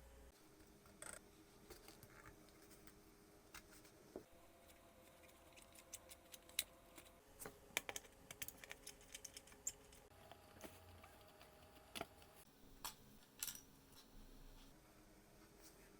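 Faint, irregular clicks and taps of small hard objects being handled, coming thickest in a quicker cluster in the middle, over a faint steady hum.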